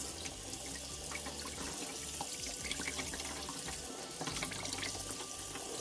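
Kitchen tap running steadily into a sink while a gutted pollock is rinsed under it to wash out the blood, with small clicks and splashes of handling.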